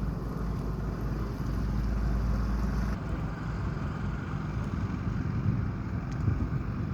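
Motor engines running with a steady low rumble; wind buffets the microphone for about the first three seconds, then eases.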